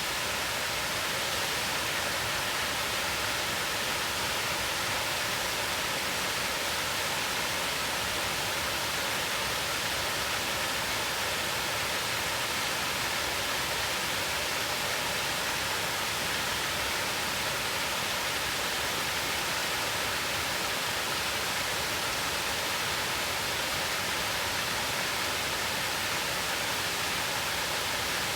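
Rushing water of a mountain stream tumbling over rocks: a steady, unbroken hiss-like rush, brightest in the upper range.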